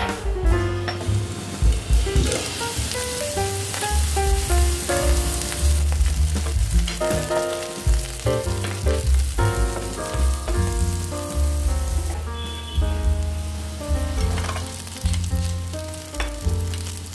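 Green beans and paneer sizzling as they fry in oil in a nonstick pan, stirred with a wooden spatula. Background music with a bass line and melody plays throughout.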